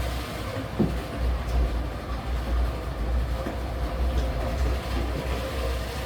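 Vehicle on the move: a steady, uneven low rumble of engine and road noise with a faint steady hum above it.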